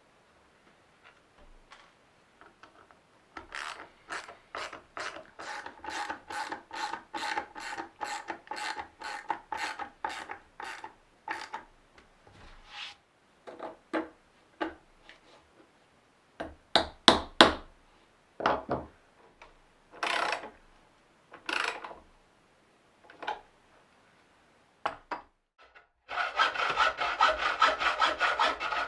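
A hand tool worked back and forth on wood, a saw or a rasp, in quick even strokes of about three a second. It breaks into scattered single strokes, then near the end turns into a faster, continuous rasping.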